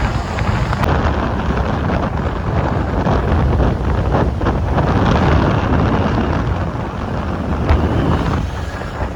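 Heavy wind buffeting the microphone of a moving motorcycle, with road and vehicle noise underneath.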